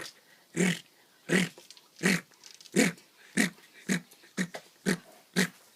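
A man imitating an animal call with his voice: a steady series of about ten short, breathy calls that come a little faster toward the end.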